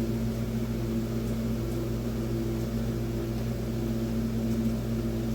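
Steady hum of an electric motor running at constant speed.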